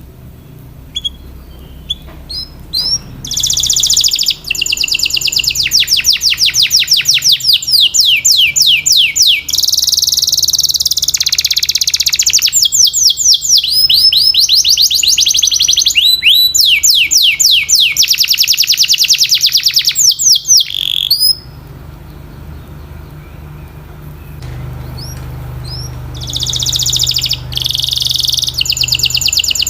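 Domestic canary singing, a loud high-pitched song built of fast rolls of rapidly repeated, quickly sweeping notes. It stops for a few seconds about two-thirds of the way through, then starts again near the end.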